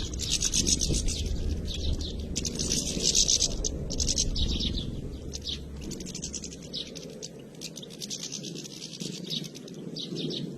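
A large flock of European goldfinches twittering and chirping, many rapid high calls overlapping in bouts. A low rumble runs underneath and fades out about six seconds in.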